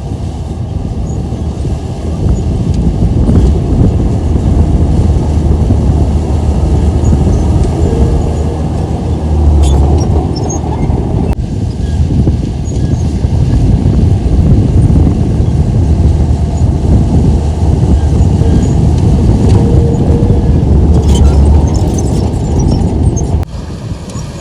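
Komatsu bulldozer's diesel engine working with a deep, steady rumble. The rumble swells twice, and the sound drops off abruptly near the end.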